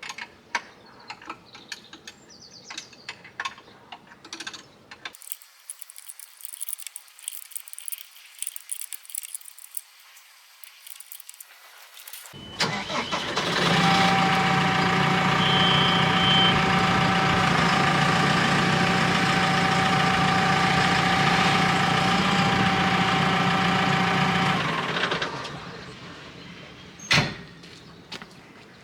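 Forklift started up and run steadily for about twelve seconds with a low hum and a steady whine while lifting a load, then shut off. Light clicks and clatter come before it, and a single sharp knock follows.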